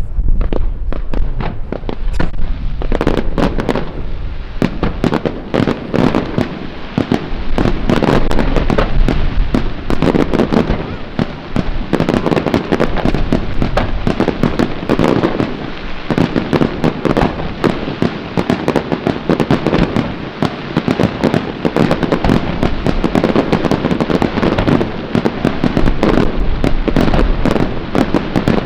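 Professional fireworks display going off without pause: a dense barrage of shell bursts, bangs and crackling, loudest from about eight to ten seconds in and again around fifteen.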